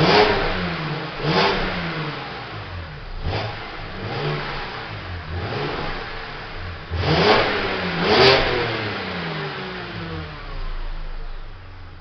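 Stock exhaust of a warmed-up BMW 530i's 258 PS straight-six being blipped repeatedly while standing, each rev dropping back quickly. Two bigger revs come a little past halfway, then the engine settles toward idle near the end.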